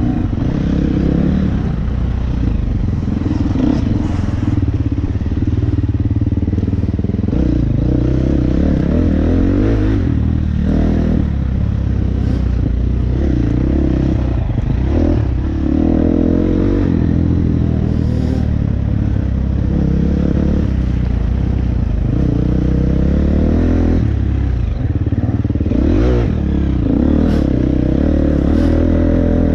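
KTM 350 SX-F's single-cylinder four-stroke engine revving up and down while the dirt bike is ridden, the pitch rising and falling again and again, with a few sharp knocks and clatters.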